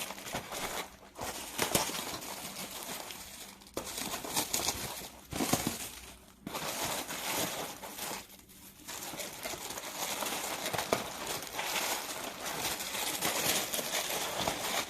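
Packaging crinkling and tearing as a parcel is unwrapped by hand, in bursts with a few short pauses.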